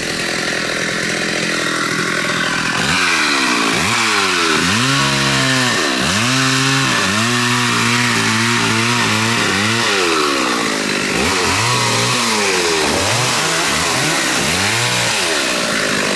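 Two-stroke chainsaw running hard, its engine speed rising and falling over and over from about three seconds in, as when it is throttled up and bogs down in a cut.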